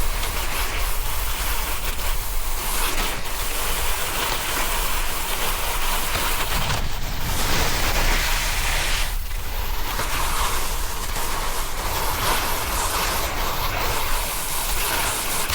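Wind rushing over the camera microphone with a deep rumble, over the steady hiss of a snowboard sliding and carving on snow. The hiss briefly thins twice, about seven and nine seconds in.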